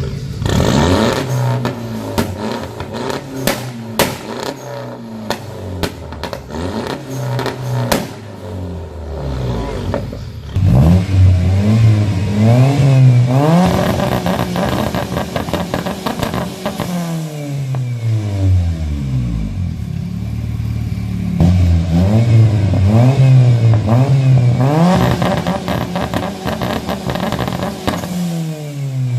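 A car engine with a loud exhaust being revved in the stand again and again, its pitch climbing and falling with each blip and hold. Over the first several seconds there are many sharp cracks and pops from the exhaust.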